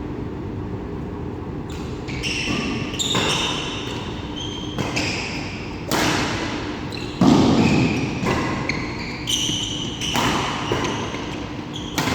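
Badminton rally: rackets striking the shuttlecock every second or two, with court shoes squeaking on the hall floor between hits. A heavier thump about seven seconds in is the loudest sound.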